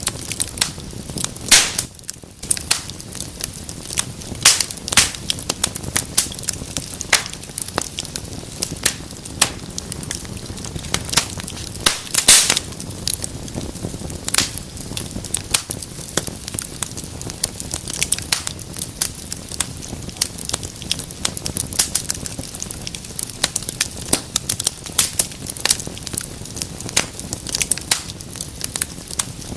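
Fire in a fireplace crackling, with irregular sharp pops over a steady low hiss of the flames; the loudest pops come about a second and a half in and about twelve seconds in.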